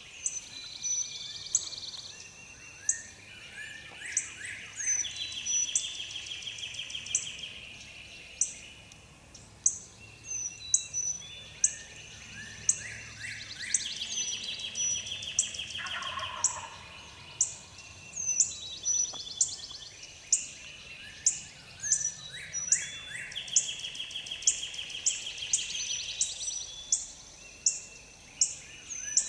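Chorus of songbirds: short, sharp high chirps repeating about once a second over overlapping trills, with one falling call about halfway through.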